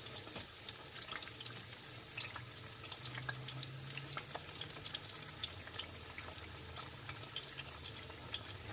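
Battered squash flowers frying in a shallow pan of oil, sizzling with a steady stream of small pops and crackles as a fork turns them. A faint low hum runs underneath.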